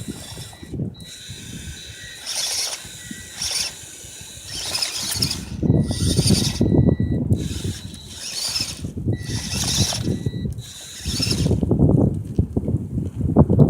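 Fayee FY002A RC truck's small electric motor and gearing whining in repeated bursts as it is driven on and off the throttle, with rumbling and rattling from its wheels and chassis over the ground.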